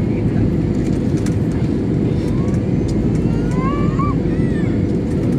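Steady roar of an airliner cabin during descent: engine and airflow noise heard from a passenger seat inside the cabin.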